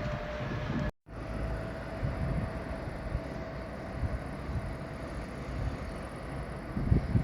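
A train running past: a steady low rumble with a faint held tone, cut off by a brief dropout about a second in.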